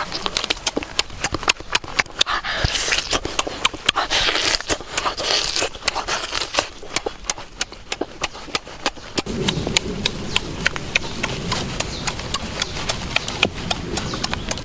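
A rapid, uneven run of sharp knocks and clicks, with a hiss-like noise in the middle and a lower, fuller noise joining about two-thirds of the way through.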